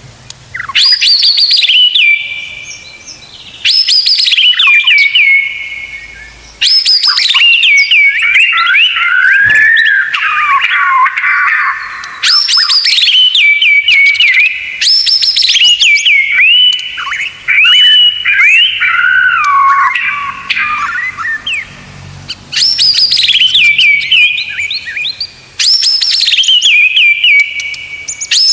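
White-rumped shama (murai batu) singing loud, varied song phrases of two to three seconds separated by short pauses, with sharp falling whistles that settle into held notes.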